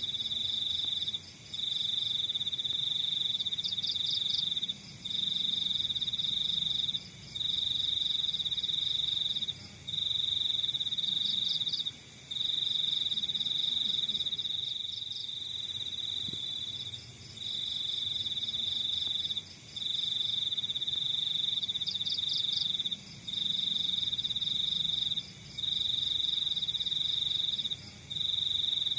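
Crickets trilling in long high bouts of one to three seconds with short breaks between. Fainter quick chirps from another insect come in just above them every few seconds.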